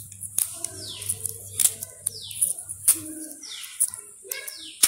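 A bird chirping repeatedly: short calls, each falling quickly in pitch, about once a second, with scattered light clicks and a low steady hum that stops about three seconds in.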